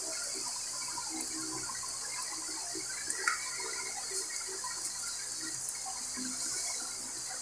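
Water running steadily, as from a tap or a water heater's service valve, with a few faint small clicks.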